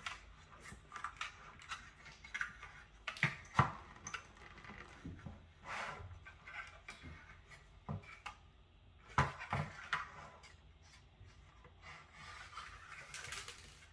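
Hands working on a desktop PC's plastic and metal case parts during disassembly: irregular clicks, knocks and rubbing, with the loudest knocks about three and nine seconds in and a scraping rub near the end.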